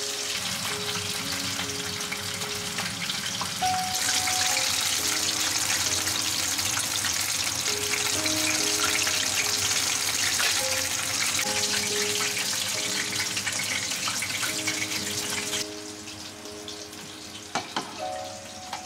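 Chicken karaage deep-frying in hot oil: a steady crackling sizzle that grows louder about four seconds in and stops suddenly near the end. A couple of sharp knocks follow, like dishes set down on a table.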